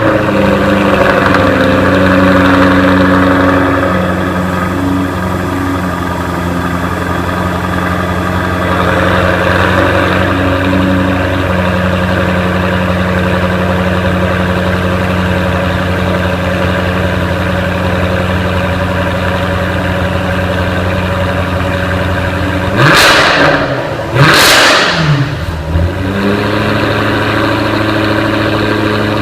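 Jaguar F-Type R's 5.0-litre supercharged V8 idling through its exhaust, a little higher and louder for the first few seconds before settling to a steady idle. Near the end it is revved twice in quick succession, each rev rising and dropping back to idle.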